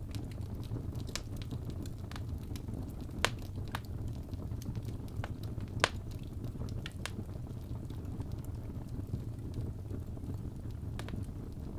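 Wood fire crackling: scattered sharp pops and snaps over a steady low rumble, the loudest pops about three and six seconds in.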